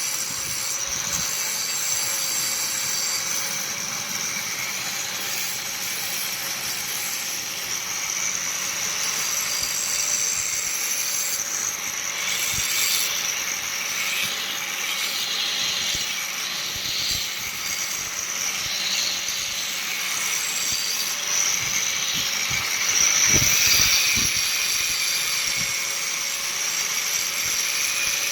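A power tool running steadily in a metalworking job, a constant hum under a high hiss, with a few knocks around the middle and near the end.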